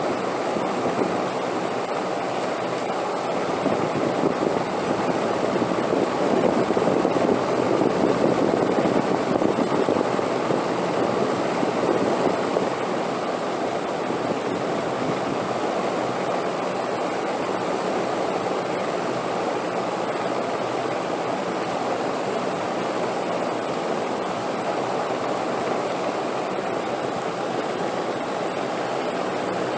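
Wind blowing in a steady rush, swelling louder for several seconds a few seconds in, then settling back to an even level.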